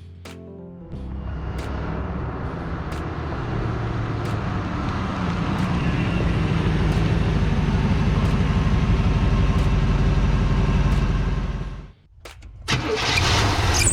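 A 1988 Chevrolet Blazer's 5.7-litre TBI V8 running under way, growing steadily louder for about ten seconds. It cuts off suddenly near the end and starts again a moment later.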